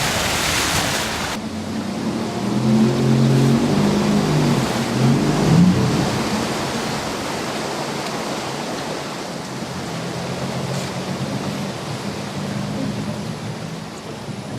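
Motorboat ride: the boat's motor running with a steady rush of water and wind. A brighter hiss cuts off suddenly just over a second in.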